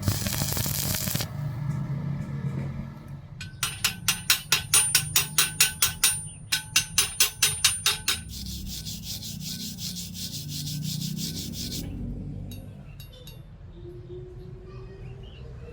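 Rhythmic scraping strokes by hand, about four a second, in two runs with a short break between them, followed by a steady high hiss lasting about four seconds.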